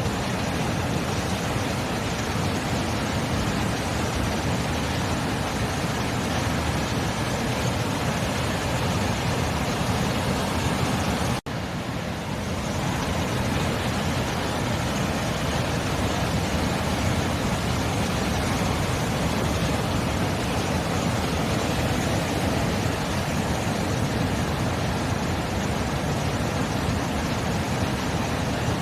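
Steady roar of sea surf, an even rushing wash with no distinct breaks of individual waves. There is a momentary gap about eleven seconds in, after which the roar comes back.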